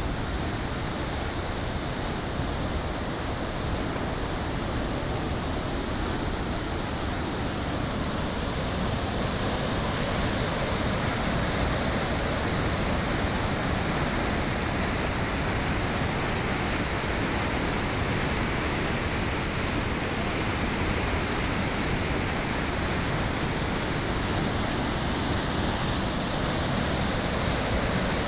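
Steady roar of a waterfall, water rushing over rock on the Pamba river.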